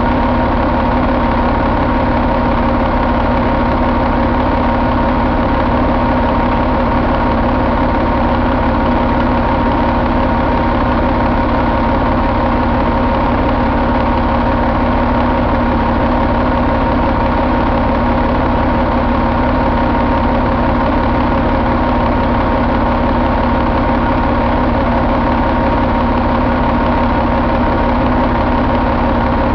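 Caterpillar 3406E 14.6-litre inline-six diesel engine running at a steady idle, with no change in speed.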